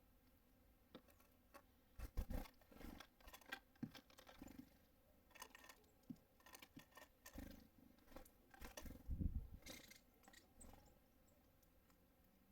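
Irregular small taps, scratches and clicks, with two heavier thumps about two and nine seconds in: birds landing, hopping and pecking on a feeder close to the microphone.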